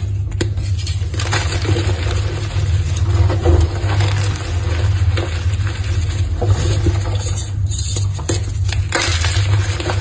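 Blocks of gym chalk being crushed and crumbled: a continuous run of crunches and small cracks.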